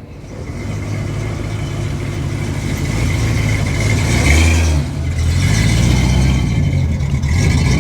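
A car engine running close by with a low rumble that grows louder over the first few seconds and shifts in pitch about halfway through.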